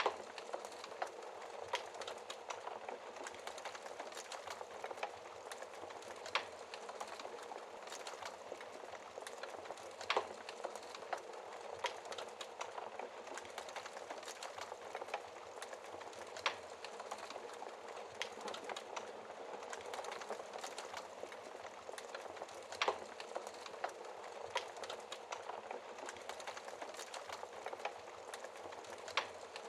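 Wood fire crackling steadily in a fireplace, a constant fine crackle with sharper pops every few seconds.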